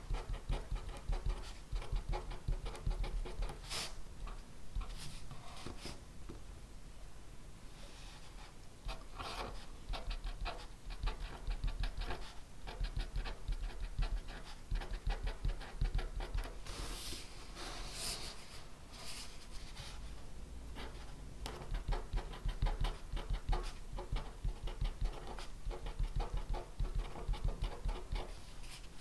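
Pen writing on paper: quick, irregular scratching strokes and taps on the desk, coming in runs with brief pauses, with a few louder strokes along the way.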